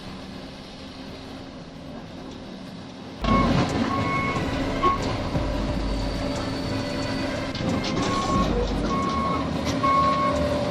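Heavy vehicle's reversing alarm beeping over a steadily running diesel engine. The engine and beeping come in louder about three seconds in, after a quieter stretch.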